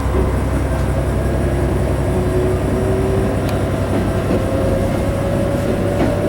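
Isumi 300 series diesel railcar pulling away: the diesel engine runs steadily with a deep rumble while a faint whine rises slowly as the car gathers speed, with a sharp click about halfway through and another near the end.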